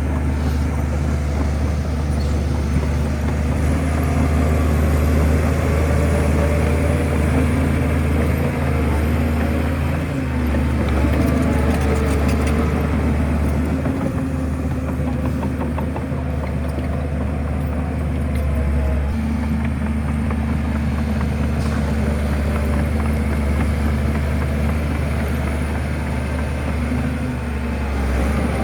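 Heavy diesel engine of a Shantui bulldozer running continuously, a deep low drone whose note shifts a couple of times as the machine works.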